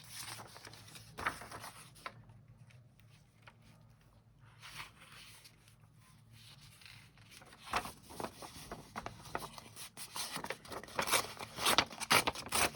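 Paper cutouts rustling and scraping as they are handled on a table. Quiet at first with a few brief sounds, then a busy run of short, sharp rustles in the second half.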